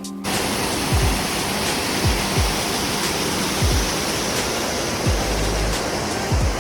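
Loud rushing water, a waterfall or mountain torrent, cutting in abruptly a moment in, over background music with deep falling bass hits.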